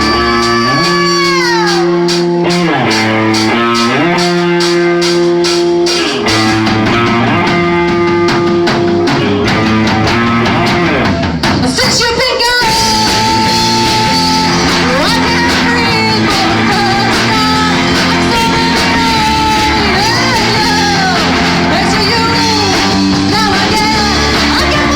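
Rock band playing: electric guitar, bass and drum kit, with a singing voice over it and bending, gliding melody lines.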